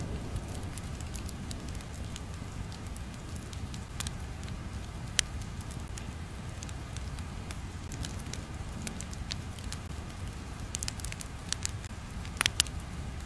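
Steady low noise with scattered sharp crackles and pops, several of them close together near the end.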